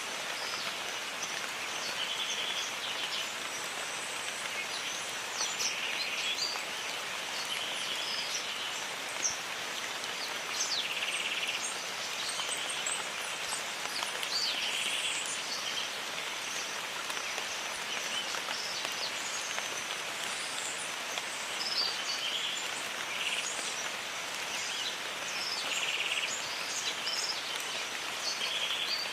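Jungle ambience of steady rain, with birds chirping and calling over it. A short buzzy call recurs every few seconds.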